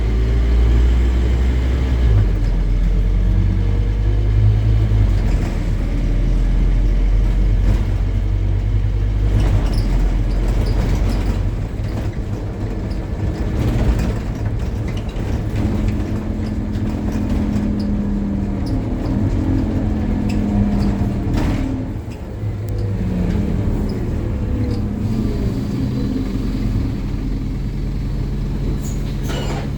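Scania N270UD OmniCity double-decker bus's five-cylinder diesel pulling hard with a deep drone, easing off about halfway through. A steady drivetrain whine rises over the engine in the second half. A few knocks and rattles come through.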